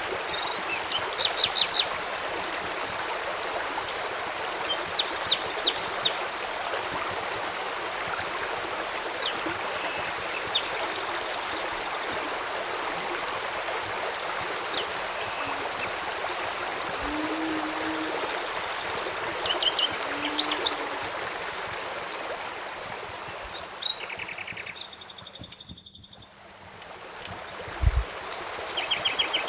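Steadily flowing stream water, with birds chirping in short quick series every few seconds. The water fades briefly almost to nothing near the end and comes back, and a single low thump sounds just after.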